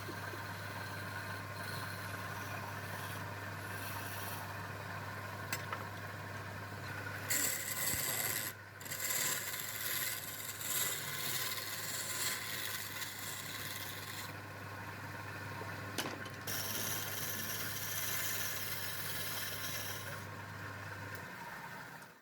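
A woodworking power tool's electric motor running with a steady hum under a rough rubbing, rasping sound of wood being sanded or abraded. The rasping gets harsher for a moment around eight seconds and again for a few seconds in the second half. The motor cuts off shortly before the end.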